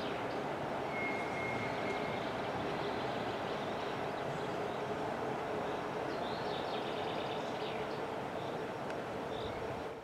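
Passenger train hauled by a VL40u electric locomotive running away into the distance: a steady rumble of wheels on rail with a faint steady hum, easing off slightly as it recedes.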